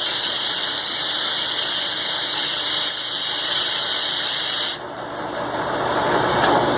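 Milling machine cutting thick steel with a roughing end mill: a steady, loud hissing, grinding cutting noise. About five seconds in the high hiss stops abruptly and a lower running noise carries on.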